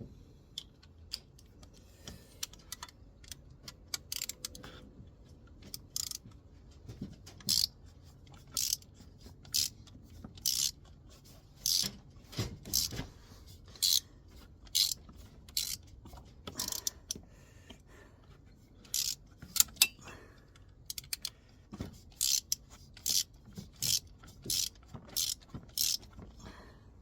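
Ratchet wrench being swung back and forth on a bolt, its pawl clicking in short bursts on each return stroke. The strokes come about once a second at first, then quicker and closer together in the second half.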